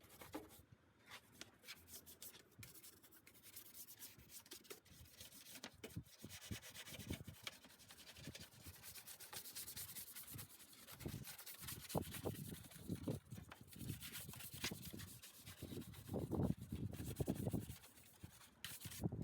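A wheel brush scrubbing engine bay parts wet with wheel cleaner, in short irregular rubbing strokes that get louder in the second half.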